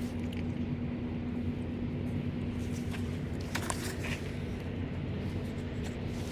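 A vehicle engine running steadily, with a constant low hum, and a few light clicks about three and a half to four seconds in.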